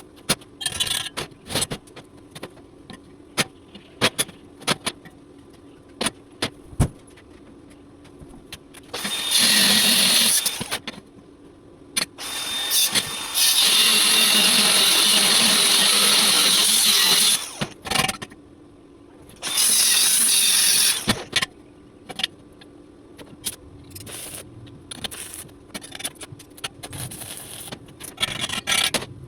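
Stick-welding arc crackling in three runs, the middle one about four seconds long. In between come sharp metallic taps and clinks of steel parts being handled.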